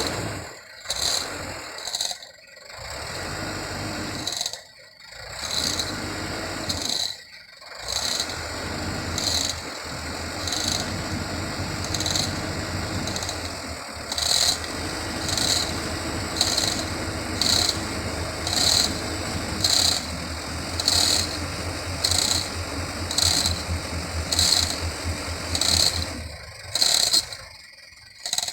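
Metal chain rattling and scraping as a chain hoist is worked to drag a stuck dump truck, with a regular clicking about once a second through the middle and a low engine hum underneath.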